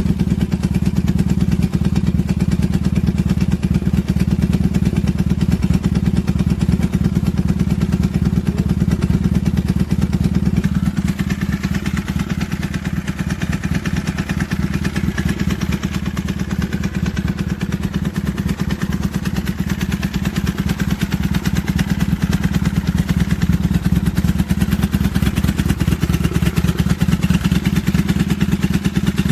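Kawasaki Vulcan 750 V-twin motorcycle engine running steadily at idle, with no revving. It drops slightly in level after about ten seconds.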